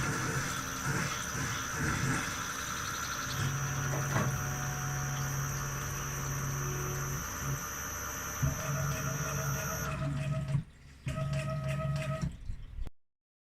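Milling machine at work: a steady high whine over a hiss, with a low hum that starts and stops in long stretches, as from the machine's axes moving. It dips briefly about two-thirds of the way through and cuts off abruptly near the end.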